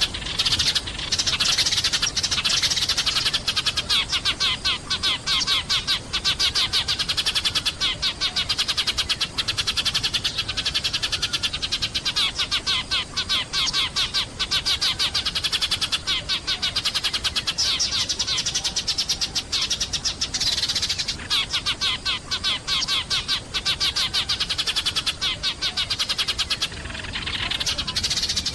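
A flock of sparrows chirping and chattering nonstop, many short rapid chirps overlapping.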